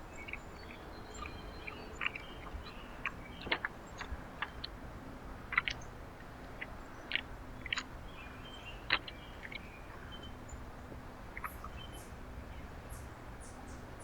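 Small songbirds at a backyard feeder giving short chip calls and ticks, scattered irregularly and a few at a time, over a faint steady low hum.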